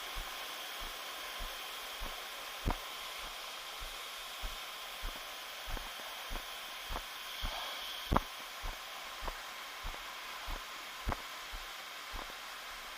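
Steady rush of a waterfall, with regular short low thuds about every 0.6 seconds.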